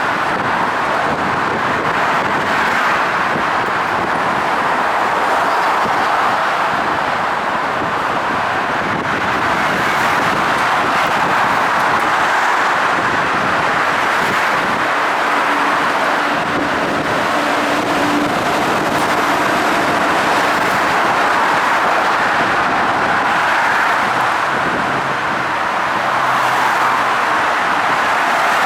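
R160 subway train running steadily along the track, a continuous loud rolling noise of wheels on rails, with a faint steady tone for a few seconds around the middle.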